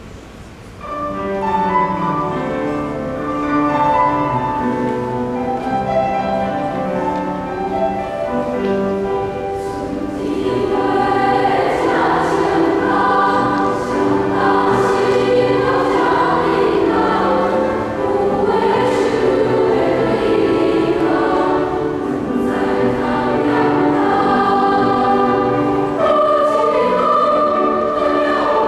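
A choir starts singing about a second in, many voices holding chords in several parts, growing fuller and louder partway through.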